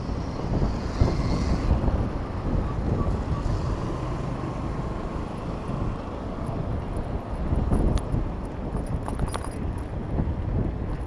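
Wind buffeting the microphone of a cyclist's camera while riding, a steady low rumble with street traffic beneath it. A couple of sharp clicks come about eight and nine seconds in.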